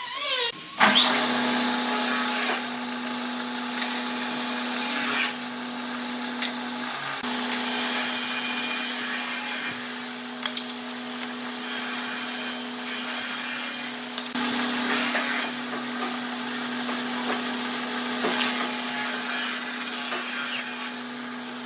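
Woodworking power tool starting up about a second in and running steadily, with repeated louder passes of cutting into wood.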